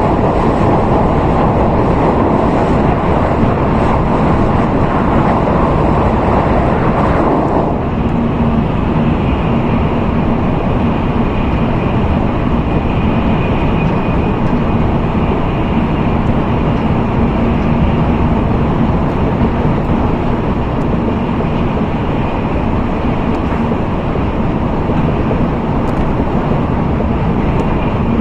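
N700A Shinkansen running at speed, a steady rushing ride noise. About seven seconds in the heavy rush softens, leaving a steady hum with a faint high whine.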